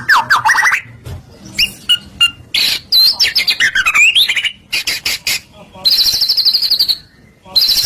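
White-rumped shama (murai batu) in full, varied song. It runs through quick descending note series, clear whistles sliding up and down and rapid clicking notes. A long, high, trembling trill comes about six seconds in, and another starts just before the end.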